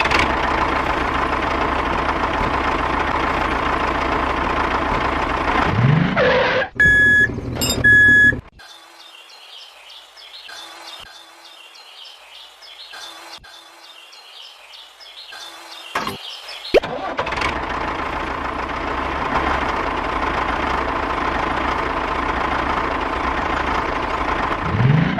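A small motor runs steadily, stops about six seconds in, and starts again about 17 seconds in. In the quiet gap between, two short high electronic beeps sound about a second apart, like a reversing alarm.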